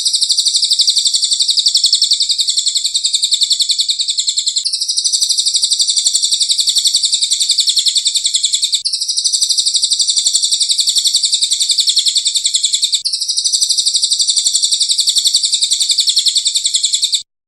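A bird's rapid, high-pitched trill, running unbroken and restarting as a loop about every four seconds. It is a looped masteran recording of bird song.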